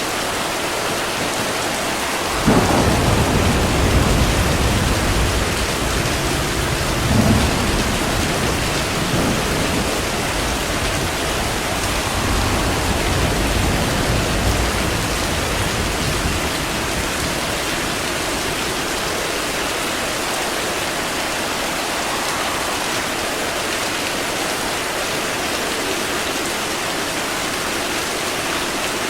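Steady heavy rain with a thunderclap about two and a half seconds in, a second crack near seven seconds, and low rolling thunder that fades over the next ten seconds.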